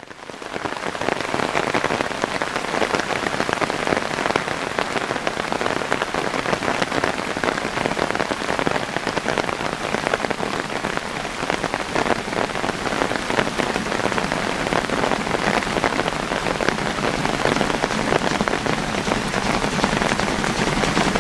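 Steady downpour of rain, a dense patter of drops hitting a surface, fading in over the first second.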